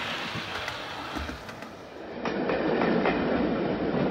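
Music fades away, then about halfway through a train is heard running, its wheels clicking over the rail joints in an irregular clickety-clack.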